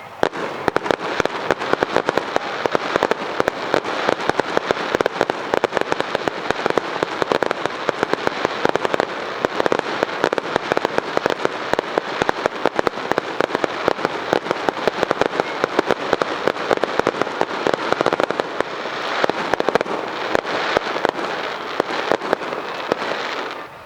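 Fireworks display: a dense, continuous barrage of crackling and popping bursts that starts suddenly and stops abruptly near the end.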